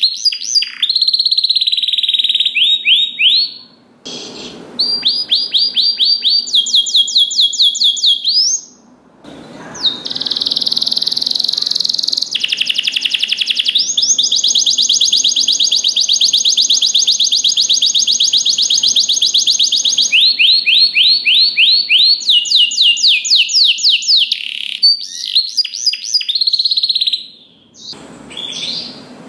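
Domestic canary singing: fast runs of repeated high notes and a long, even rolling trill through the middle, broken by a few short pauses.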